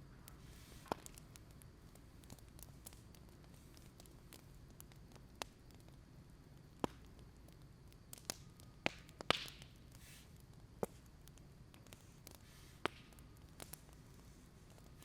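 Wood fire burning with a low steady rumble and sparse, irregular sharp pops and crackles, a little cluster of them about nine seconds in.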